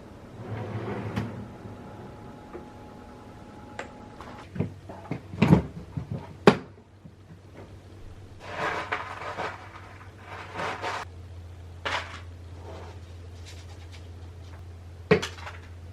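Kitchen handling sounds: cupboard doors and dishes knocking and clicking, with rustling as things are moved about. A low steady hum starts about two-thirds of the way through.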